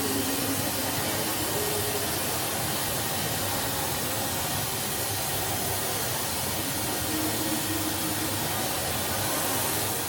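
Heavy rain falling steadily, an even wash of noise at a constant level.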